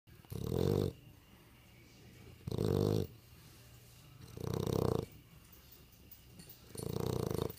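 A sleeping dog snoring: four snores, each under a second long, about two seconds apart.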